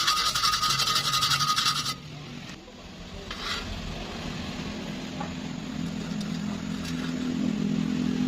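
Stick-welding arc crackling and sizzling for about two seconds, then cutting off suddenly. After the arc breaks, a low steady hum grows louder.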